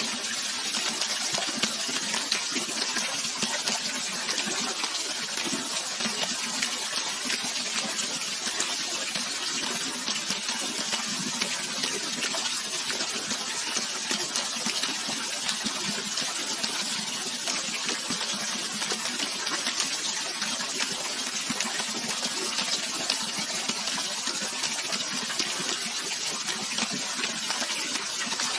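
Steady, unbroken rush of running water, mostly hiss with little low rumble.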